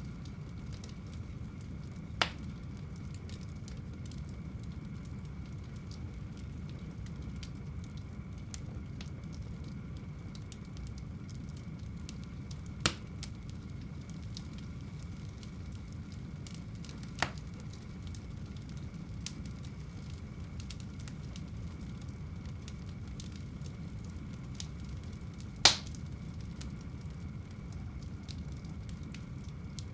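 Fire burning in a home fireplace: a steady low rumble with faint crackling, broken by four sharp pops spread through the stretch, the loudest near the end.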